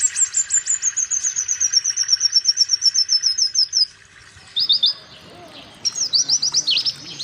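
Pleci (white-eye) singing: a fast, even trill of about nine short high notes a second, slowly falling in pitch for about four seconds. After a short pause come a few quick bursts of sweeping chirps.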